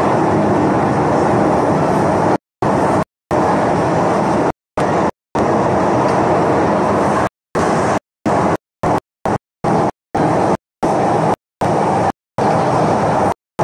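Steady rumbling noise of a moving vehicle, broken from about two and a half seconds in by many abrupt gaps of total silence.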